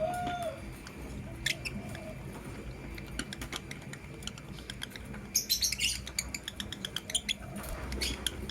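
A pair of lovebirds chirping: short, sharp, high-pitched chips scattered throughout, with a dense run of rapid chirps about five seconds in.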